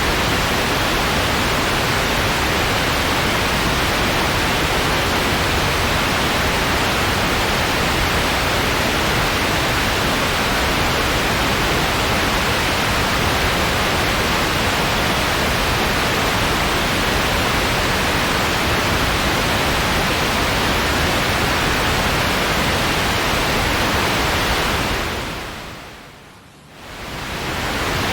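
Steady white noise, an even hiss with no pattern, which fades down and back up again near the end.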